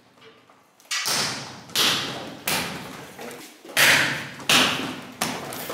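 Strikes landing on a BOB torso training dummy: six sharp hits in two runs of three, each with a short fading smack.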